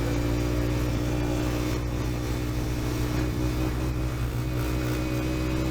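Dirt bike engine running steadily at a constant cruising speed, its pitch holding level, with rushing air noise over it.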